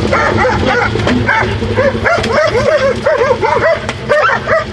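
Dogs barking rapidly and repeatedly, several barks a second, over the steady low running of a 1977 Jeep CJ5's engine.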